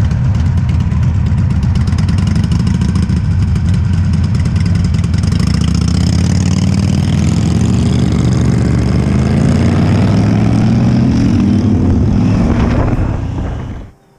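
Harley-Davidson V-twin motorcycle engines running loud at close range, revving with the pitch rising as the bikes pull away, then dropping away about a second before the end.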